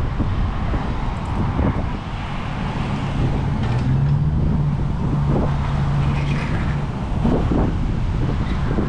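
Wind buffeting the microphone of a moving bicycle over road traffic noise. A motor vehicle's engine hum comes up about three and a half seconds in and passes by about seven seconds in.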